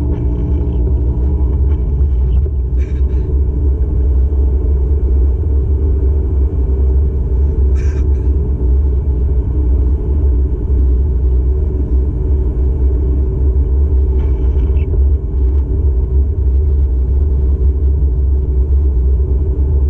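Steady low rumble of a car's engine and tyres heard from inside the cabin while driving, with a few brief faint sounds about 3, 8 and 14 seconds in.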